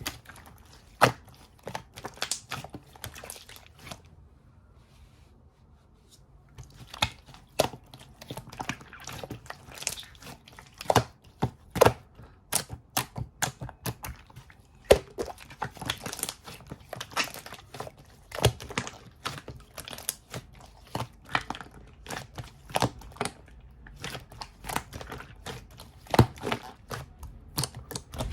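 Slime being squeezed and pressed by hand: a rapid, irregular run of sticky pops and crackles, with a short pause about four seconds in.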